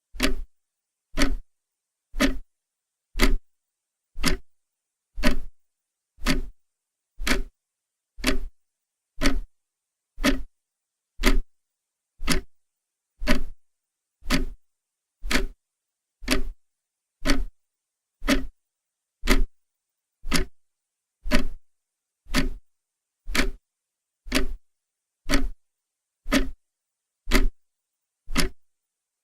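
Clock ticking steadily, one short tick about every second with silence between ticks.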